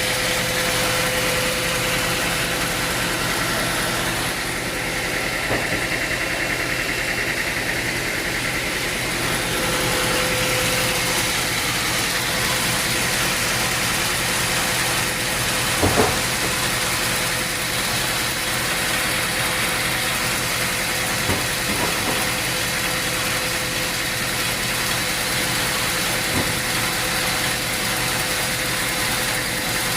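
Sawmill machinery running steadily with a constant hum, broken by a few sharp knocks: the loudest about halfway through, two fainter ones later.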